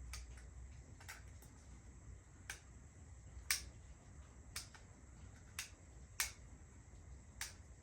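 Sharp small clicks, about eight of them spaced irregularly roughly a second apart, the loudest about three and a half and six seconds in.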